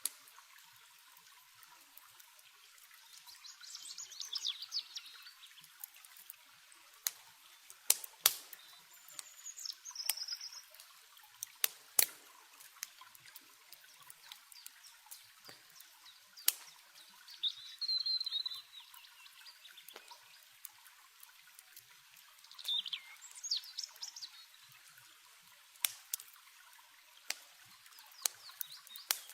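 Water running with a steady hiss, while small birds chirp in four short bursts of song. Sharp single pops from a crackling campfire come at intervals over it, the loudest about a third of the way in.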